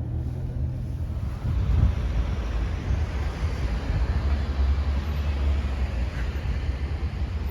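A car's engine and road noise heard from inside the cabin as it moves at low speed into a parking space: a steady low rumble with some wind-like noise.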